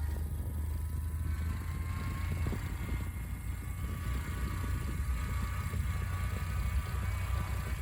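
Honda CT125's small single-cylinder engine running while riding, under a steady low rumble of wind on the microphone.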